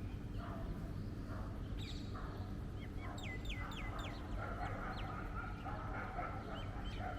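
A bird calling: a quick run of about five sharp chirps, each sliding steeply down in pitch, about halfway through, over a steady low street rumble.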